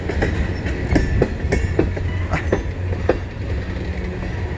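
Freight cars of a CN mixed freight train rolling past at close range: a steady low rumble of wheels on rail, with irregular clicks and clanks.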